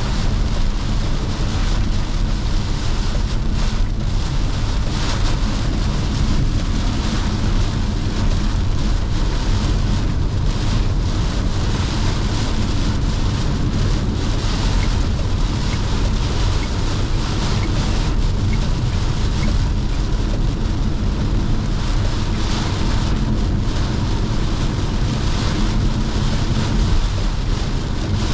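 Car driving in heavy rain on a wet expressway: a steady rush of tyre spray, rain and wind with a low drone underneath, no breaks.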